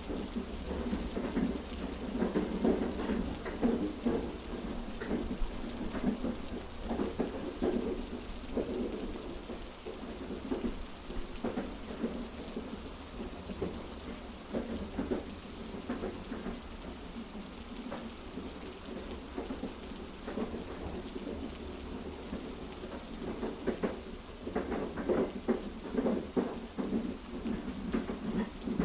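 Heavy rain mixed over the low, continuous rumble of a train carriage, growing louder and busier in patches, most of all near the end.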